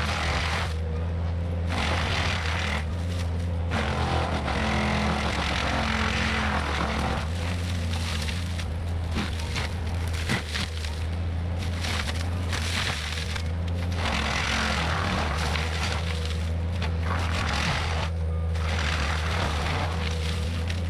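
Cat 259D compact track loader's diesel engine running steadily under load while its forestry mulcher head grinds brush. The grinding noise swells and falls back every second or two as the head bites into material.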